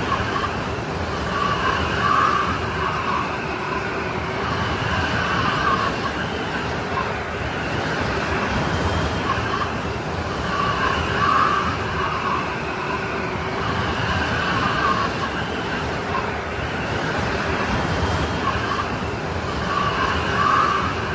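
Strong snowstorm wind blowing steadily, with a whistling tone that swells and fades every few seconds.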